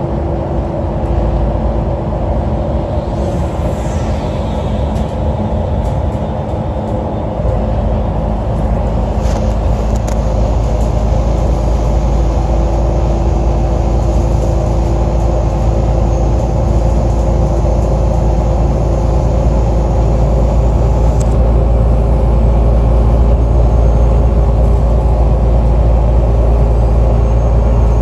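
Diesel engine of an Alexander Dennis Enviro 500 double-decker bus running, heard on board; a weird engine sound. A steady drone with a low rumble that grows heavier about seven seconds in, and a brief high whine that falls in pitch about three seconds in.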